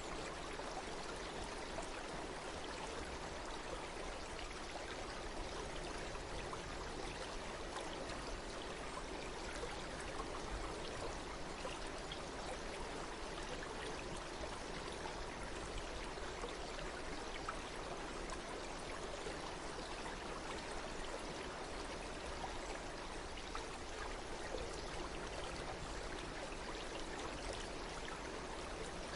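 Stream water flowing steadily over rocks, an even rushing with small splashes and trickles throughout.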